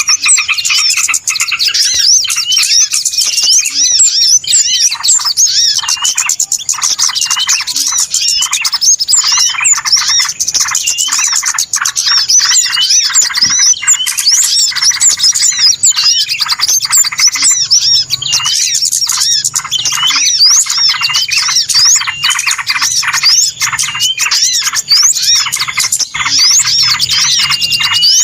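A dense, unbroken chorus of many small birds chirping and twittering all at once, with quick rising and falling notes overlapping. This is a noisy lure call of the kind played to draw small birds in for trapping.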